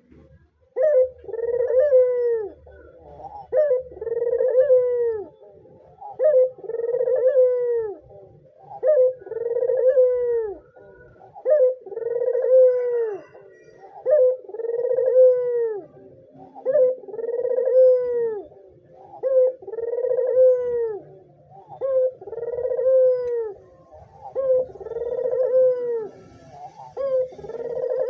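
White puter (Barbary dove) cooing over and over in its full persistent call: a short note followed by a long coo that rises and falls, repeated about every two and a half seconds.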